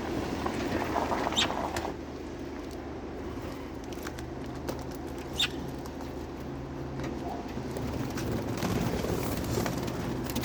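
Lovebirds pecking and scrabbling at their feed: scattered light clicks and taps. A low steady hum sets in about four seconds in.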